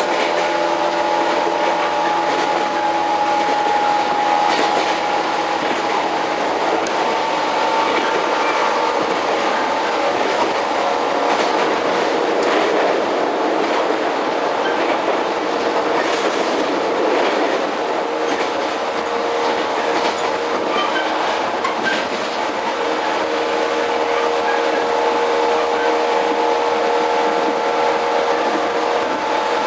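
Running sound inside a JR 115-series electric train's motor car: steady whine from the MT54 traction motors and gears over the rumble of the wheels, with scattered clicks from the wheels passing over rail joints.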